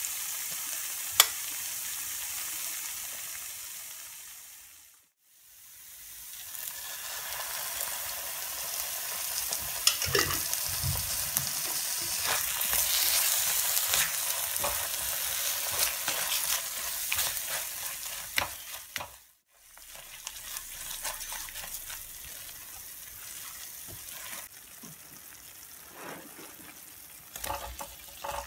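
Thick red masala paste sizzling in a frying pan while a spatula stirs and scrapes through it, with scattered clicks and scrapes. The sizzle twice drops briefly to silence and is quieter in the last third.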